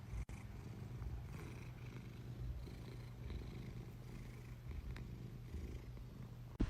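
Cat purring, a faint, steady low rumble.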